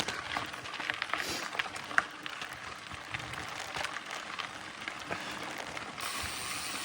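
Mountain bike rolling along a dirt trail: tyre and drivetrain noise with scattered clicks and rattles, and a steadier hiss near the end.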